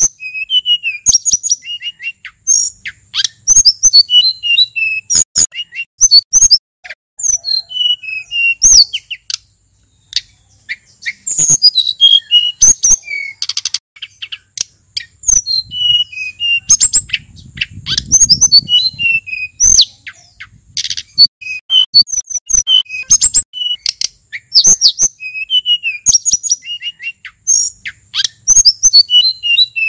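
Male sulingan gunung singing a varied, rapid song of high chirps and short whistled phrases, repeated with only a short pause about ten seconds in.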